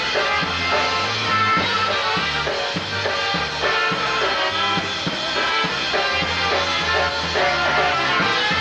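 Live polka band playing: a bouncing bass line and drums under melody instruments, at a steady dance tempo.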